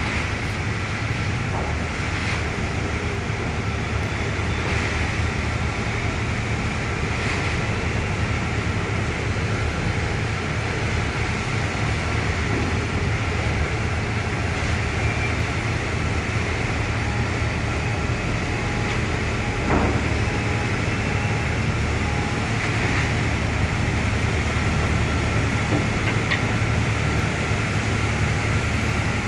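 Steady low drone of an Austal 40 m catamaran ferry's engines as it pulls away from the pier, with a single faint knock about two-thirds of the way through.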